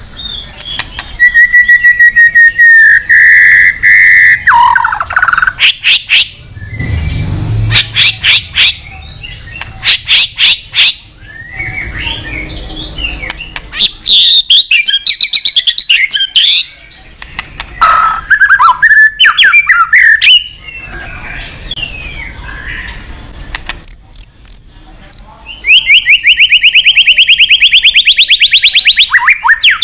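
White-rumped shama singing loudly in varied phrases: clear whistled notes, runs of sharp clicking notes, and a long rapid trill of repeated notes near the end.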